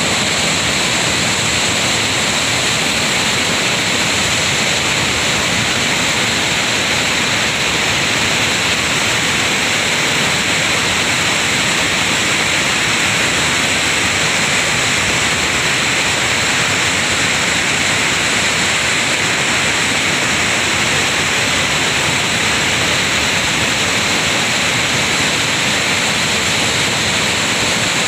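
Lohit River's fast water rushing steadily over rocks, a loud even roar of moving water.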